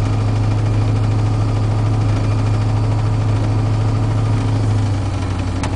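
Chevy 350 small-block V8 with a lumpy cam idling steadily through straight-piped Flowtech headers, a low even exhaust note. The engine is still cold and warming up after a cold start.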